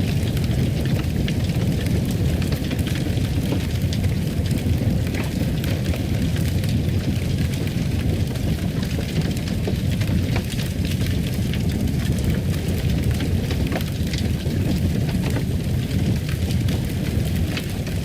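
Wood fire in a fireplace burning steadily, a low rushing with frequent small crackles and pops scattered throughout.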